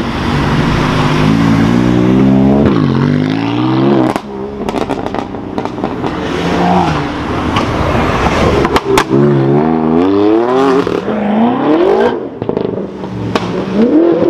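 BMW M4's twin-turbo straight-six engine accelerating hard from a standstill, then more hard pulls from performance cars: each time the engine note climbs in pitch and drops abruptly at the upshift, with a few sharp cracks along the way.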